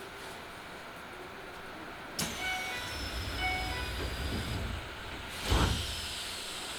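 Keisei 3000 series commuter train at a station: the doors start to close with a sudden hiss and a falling whine, a two-tone door chime sounds twice, and the doors shut with a loud thump about five and a half seconds in.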